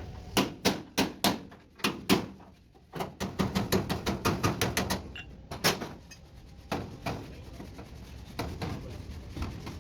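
Hammer striking sheet metal in sharp, repeated blows: a few single strikes, then a quick run of about five or six a second near the middle, then scattered blows. This is panel-beating on the Mazda T3500 truck cabin's body.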